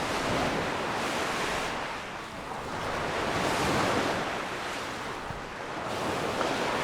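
Small sea waves breaking and washing up the shore, the surf's hiss swelling and fading three times.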